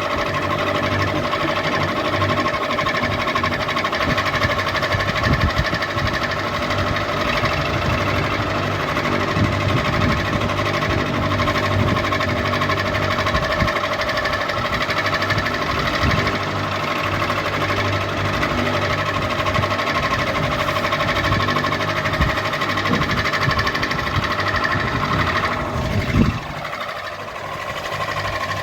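Ceiling fan running steadily, a motor hum with a rapid mechanical rattle under it. Near the end there is a brief louder knock, after which the low rattle stops.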